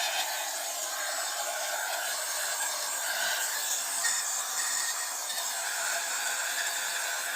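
Steady hiss with faint shifting tones from the Sanyo M9802AK radio cassette player's speaker, thin and without bass.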